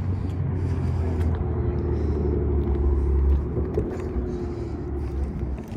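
A car engine running nearby, a deep steady rumble that swells to a peak about three seconds in and then eases off.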